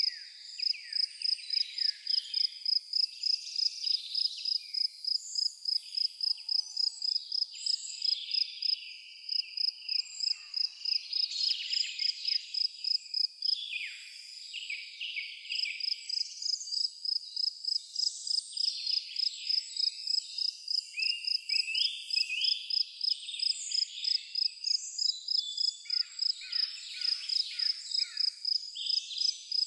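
A cricket chirping in a steady, even pulse, pausing briefly a third of the way in and again about halfway, with songbirds chirping and trilling over it.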